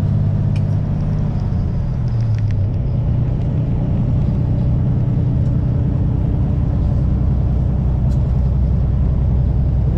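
Kenworth semi-truck's diesel engine running under way with road rumble, heard inside the cab. The engine note drops over the first few seconds, then holds steady.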